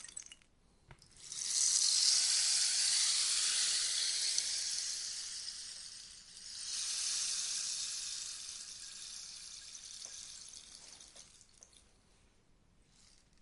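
Rainstick turned over twice, its pebbles trickling down inside with a rain-like hiss. The first pour starts about a second in and swells quickly. A second pour follows near the middle and slowly fades away.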